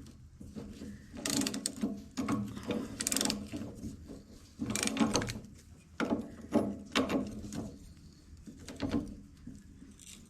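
Socket ratchet clicking in short strokes, five or six bursts of rapid clicks a second or two apart, as a nut on the backhoe's steering wheel is worked loose.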